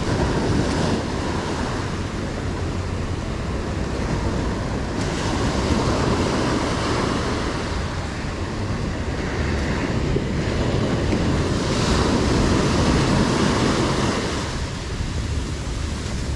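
Ocean surf washing onto a sandy beach, a steady rush that swells twice as waves break and then eases.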